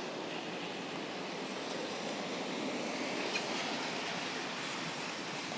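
Steady rain, hissing on the wet street and pattering on an umbrella held overhead.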